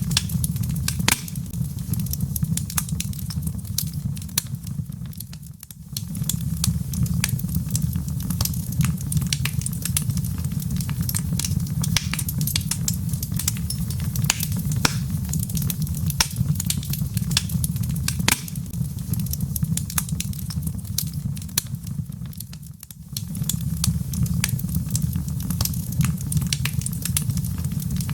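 Log fire crackling in a fireplace: frequent sharp pops and snaps over a steady low rumble, which briefly drops away twice.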